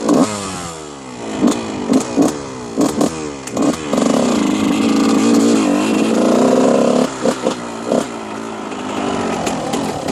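2001 Honda CR125 two-stroke single-cylinder dirt bike engine revving in quick throttle blips, each falling back in pitch. After about four seconds it holds high revs for roughly three seconds, then blips a few more times and settles lower.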